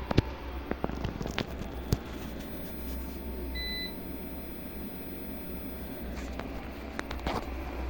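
A single short electronic beep a little past halfway, over a steady low hum, with several sharp clicks in the first two seconds and near the end.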